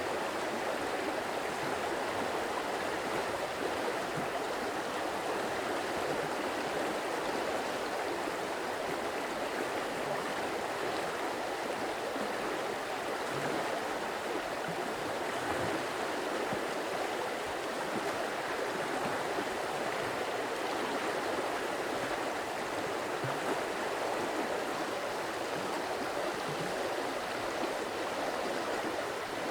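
Running water of a stream flowing steadily, an even rush with no breaks or changes.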